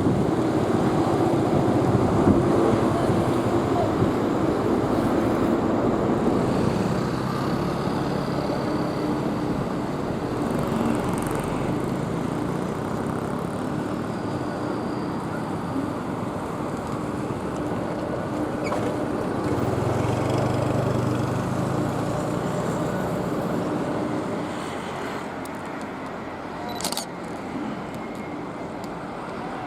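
Jet airliner engines running with a steady roar and hum that slowly fades away.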